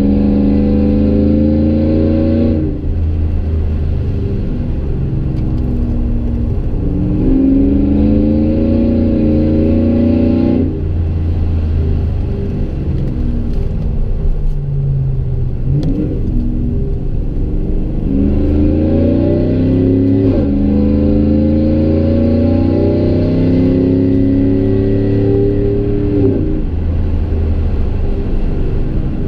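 Chevy Silverado 5.3-litre V8 heard from inside the cab, exhausting through long-tube headers and a Gibson MWA muffler with no resonator. It pulls hard several times, its note climbing and then dropping back sharply, with a stretch of lighter cruising in the middle.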